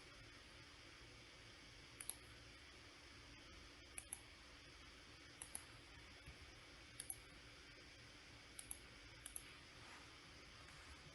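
Computer mouse being clicked in quick pairs, about six double clicks spaced a second or two apart, over a faint steady hiss.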